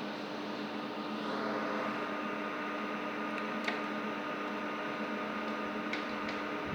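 Steady mechanical hum and hiss, like a running fan, with a few light clicks, one near the middle and a couple near the end.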